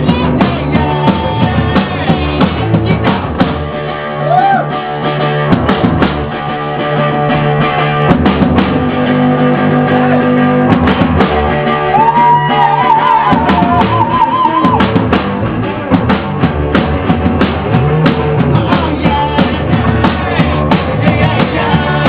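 Rock band playing live: drum kit and electric guitars at full volume, with a high held note wavering in pitch about twelve seconds in.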